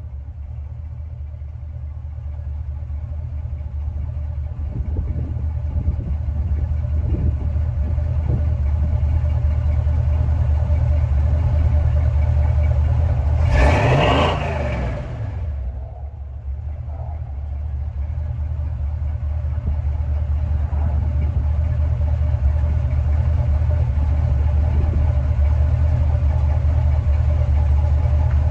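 Vehicle engine with a newly fitted Edelbrock 650 AVS2 carburetor, heard while driving: a steady low drone with road noise that builds as it pulls. About halfway through there is a brief rushing swell, then the drone builds again.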